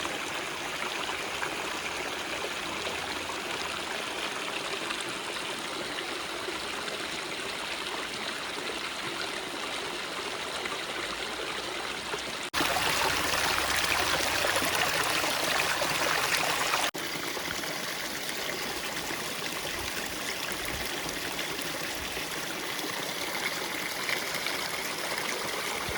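Steady rushing of a flowing stream. It is louder for about four seconds in the middle, starting and stopping abruptly.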